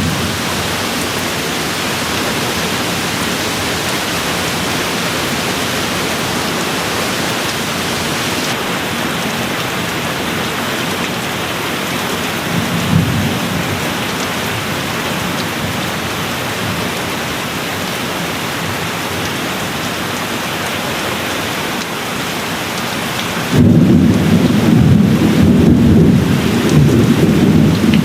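Steady rain falling, with a soft low roll of thunder about halfway through and a louder, deeper rumble of thunder that starts suddenly near the end.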